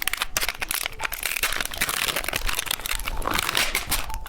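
Plastic candy wrapper crinkling as it is handled and opened, a dense run of crackles.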